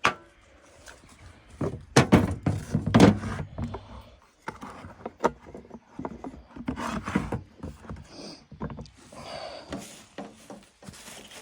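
Irregular knocks, clunks and light rattles of motorbike parts and tools being handled and set down, loudest about two and three seconds in.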